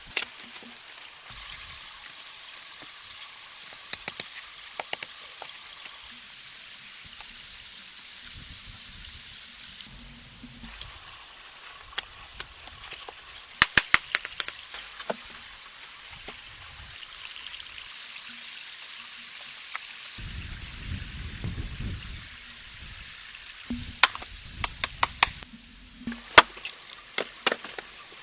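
Steady hiss of rain, with clusters of sharp snaps and clicks about halfway through and again near the end.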